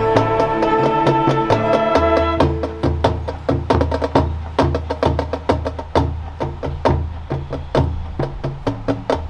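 High school marching band playing its contest show music: held chords at first, then about two seconds in a percussion-driven groove of sharp, evenly spaced hits over a pulsing low bass line.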